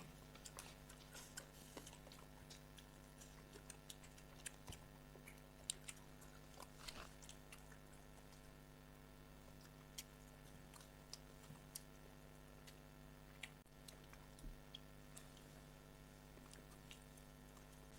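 Faint chewing and small scattered mouth clicks of people eating, over a steady low hum.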